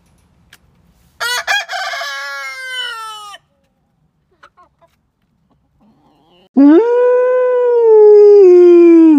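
Rooster crowing twice: a shorter crow about a second in, then a long, loud crow from about six and a half seconds in that slides slowly down in pitch and cuts off at the end.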